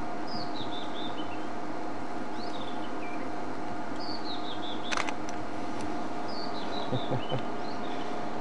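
A songbird repeating a short, falling song phrase about every two seconds, over a steady hum. A sharp click comes about five seconds in.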